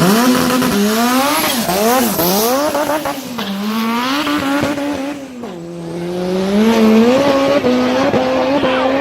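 Turbocharged car engine revving hard again and again, its pitch climbing and falling back several times, with a high whistle from the turbos spooling up over it.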